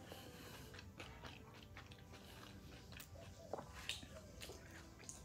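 Faint chewing of a mouthful of cheeseburger with crispy onion rings: soft scattered mouth clicks, a little louder about three and a half and four seconds in.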